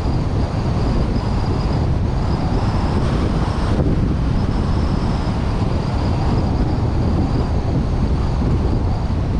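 Wind buffeting a suction-cup-mounted GoPro on a vehicle driving a mountain pass, a steady low rush of wind and road noise, with a faint high whine that drops out briefly a couple of times.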